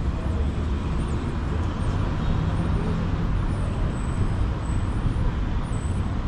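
Steady city street traffic: a continuous low rumble of passing cars and other motor vehicles.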